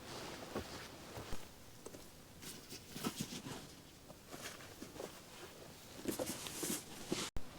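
Footsteps and rustling in dry autumn leaf litter: irregular soft crunches and rustles at an uneven pace.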